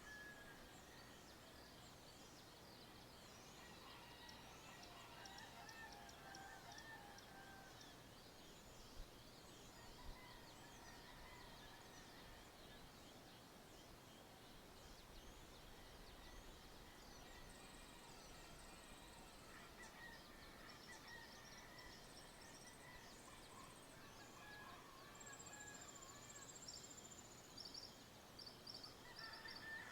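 Faint dawn chorus in the countryside: many birds chirping and whistling at once, with some high, steady trills joining in over the second half. Two soft knocks come about a third of the way in.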